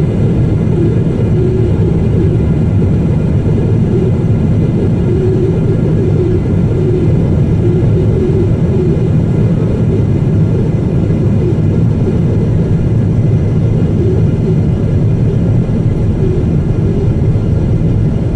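Boeing 777-200ER cabin noise during descent: a steady, loud rumble of engines and airflow heard from inside the cabin.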